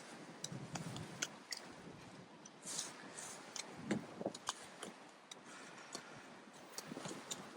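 Raindrops ticking and tapping at irregular intervals over a steady hiss of falling rain.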